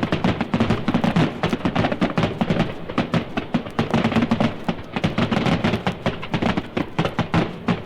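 A recorded sound effect of rapid, irregular cracks and clatter, many a second, going on without a break.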